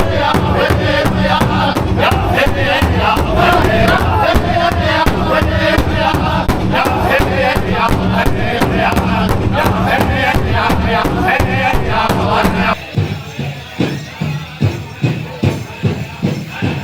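Powwow drum group: a large hand drum beaten in a steady, fast beat while singers chant in high voices. About thirteen seconds in, the singing cuts off suddenly and only quieter, spaced drumbeats go on.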